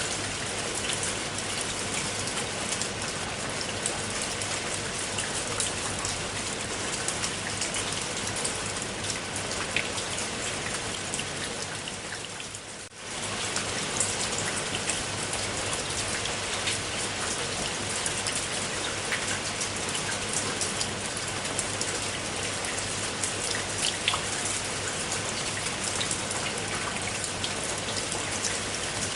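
Steady rain falling, with many individual drops ticking through the hiss. It briefly fades almost away and comes straight back about thirteen seconds in.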